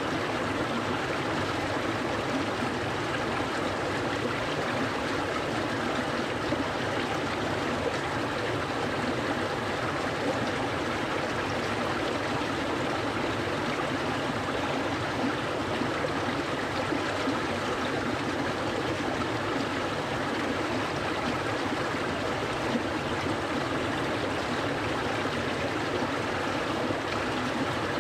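Clear mountain stream flowing steadily over stones, an even rushing babble with light gurgling.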